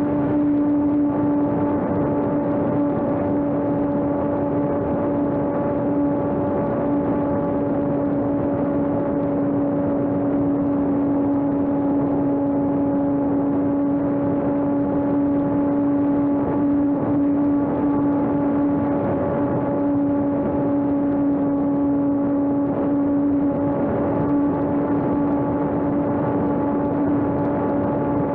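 Electric RC airplane's propeller and brushless motor running at a steady cruise throttle, a constant buzzing whine over rushing airflow noise.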